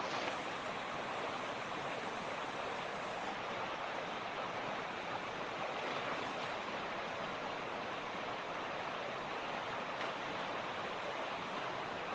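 Mountain creek rushing steadily, an even flow of water over stones.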